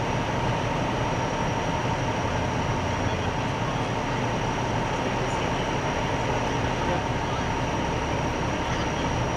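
Steady running-vehicle noise, an even rumble with a constant whine and a fainter high whistle over it.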